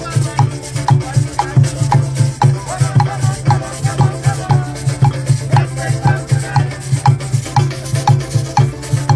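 Music from a live percussion group: a steady, fast drum beat with shakers rattling along.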